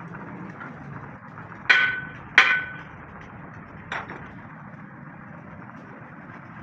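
Hammer blows on steel: two loud ringing strikes in quick succession, then a weaker third about a second and a half later.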